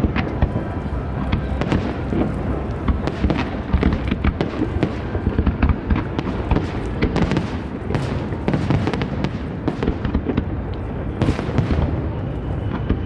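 Aerial fireworks display: a dense, unbroken barrage of bangs and crackling bursts, many a second, over a continuous low rumble.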